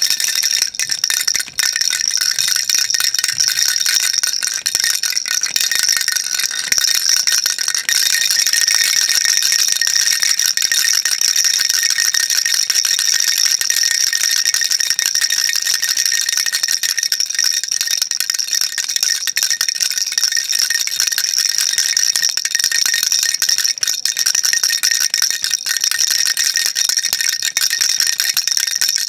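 Baby rattle shaken continuously: a steady, unbroken, high-pitched rattling with no pauses.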